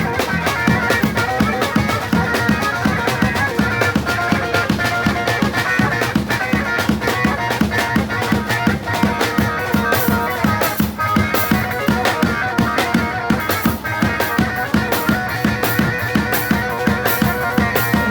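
Live folk dance music in a lilting 6/8 rhythm: a drum kit with bass drum keeps a steady, even beat under a busy, ornamented melody.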